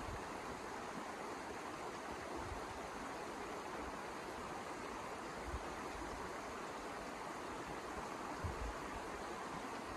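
Steady rushing of snowstorm wind, with a few brief low gusts buffeting the microphone.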